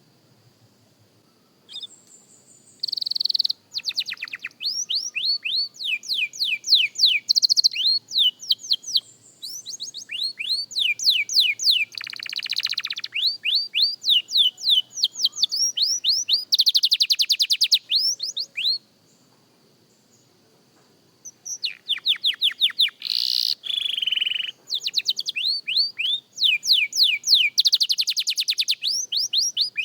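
Young canary singing: fast trills of repeated, downward-sweeping high notes, strung into rolling phrases with brief pauses between them. The song starts a few seconds in and breaks off for about two seconds around two-thirds of the way through.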